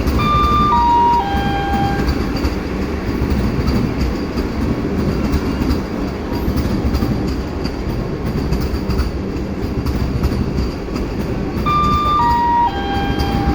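Vande Bharat Express electric trainset rumbling steadily as it pulls into the platform, with faint clickety-clack of the wheels. A three-note falling station announcement chime sounds at the start and again near the end.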